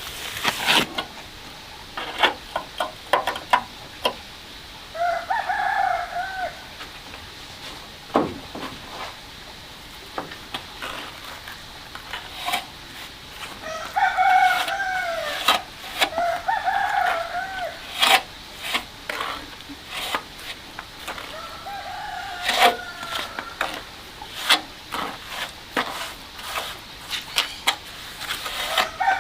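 A rooster crowing four times, with frequent sharp clicks and knocks between the crows.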